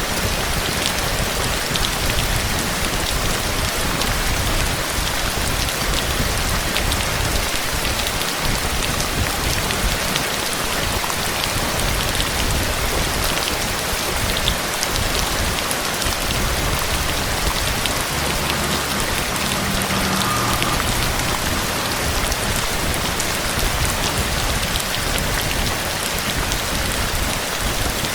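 Steady heavy rain falling on hard surfaces, an even hiss with many fine drop ticks. A faint low rumble comes in briefly about two-thirds of the way through.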